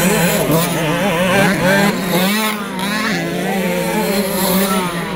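Several 65cc two-stroke motocross bikes racing, their engines revving up and down over a steady drone.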